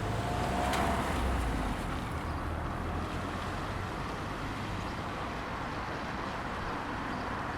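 Steady street traffic noise: an even hiss with a low rumble that eases after the first couple of seconds.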